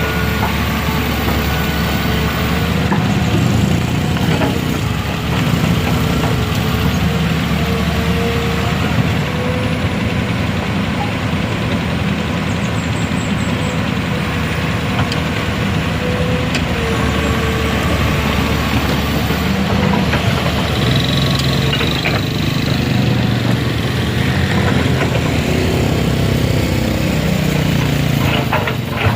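Heavy vehicle engine running, its pitch wavering up and down a little as the engine speed changes.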